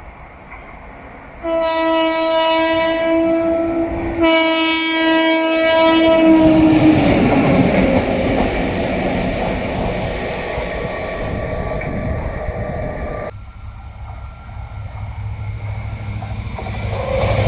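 Freight train locomotive horn sounding two long blasts, its pitch dropping a little as the locomotive passes, followed by the rumble and clatter of the passing train. The train noise cuts off abruptly about four seconds before the end, and a lower hum builds after it.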